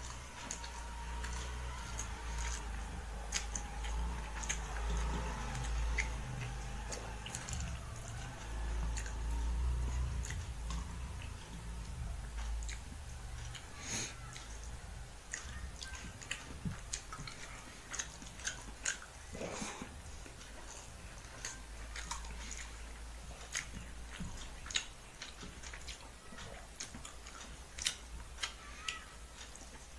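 Close chewing of a man eating rice and fish curry with his fingers: wet mouth sounds and smacking, with many small sharp clicks scattered throughout.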